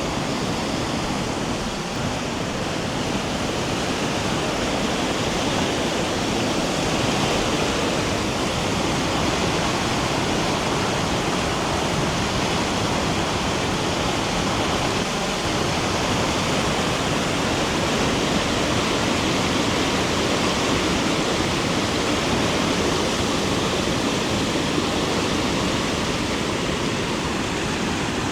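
Steady, loud rush of flowing water from a flooded, swollen river.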